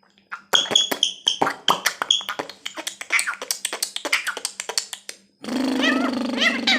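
Pet parrot making a rapid run of clicks and short squeaky chirps, a beatbox-like chatter lasting about five seconds. Near the end a steady low hum starts suddenly, with rising-and-falling whistles over it.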